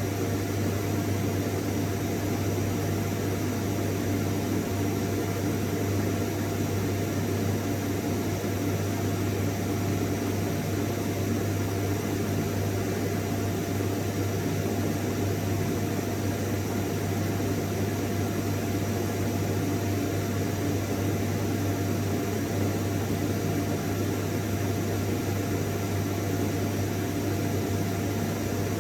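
Vacuum cleaner running continuously at a constant level: a steady motor hum with a low drone and a fainter whining tone over even rushing-air noise, with no change in pitch or loudness.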